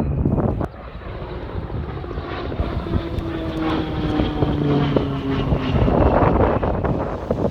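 Aircraft flying past, loud, its engine tone sliding slightly down in pitch over a rushing noise that swells about six seconds in.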